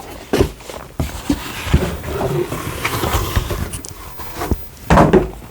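Handling of packaging as items are lifted out of a box: irregular rustling with scattered taps and knocks, and a louder rustle near the end.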